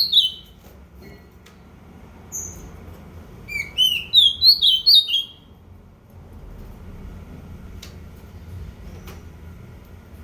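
A bird singing short, clear whistled chirps: a pair at the start, a single note a couple of seconds in, then a quick run of about eight notes, over a low background hum.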